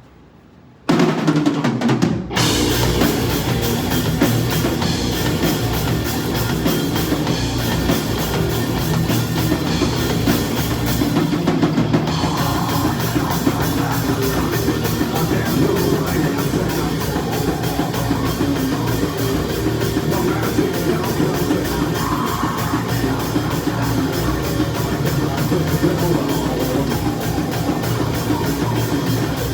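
Live metalcore band kicking into a song about a second in: heavily distorted guitars, bass and fast drums at full volume.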